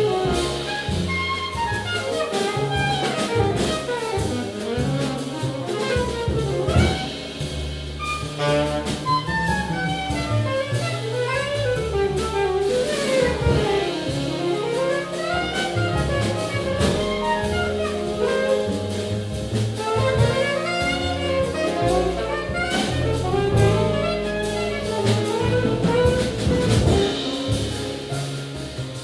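A small jazz group playing live: a fast, winding solo line runs over a moving bass line and drums with busy cymbal work.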